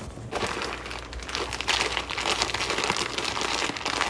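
Bag of birdseed crinkling and rustling as it is handled, a dense crackly rustle that starts a moment in and goes on without a break.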